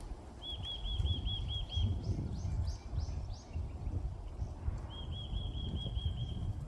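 Small songbirds singing: a quick trill of about eight short looping notes, repeated after a few seconds, and another bird giving a series of about six short falling notes in between. Wind rumbles steadily on the microphone underneath.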